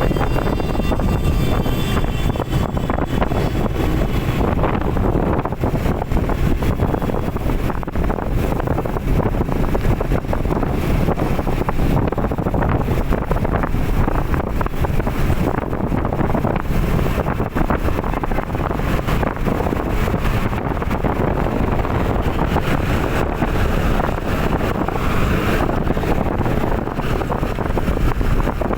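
Wind buffeting the microphone over steady vehicle road noise, a continuous low rumble as when riding a motorbike.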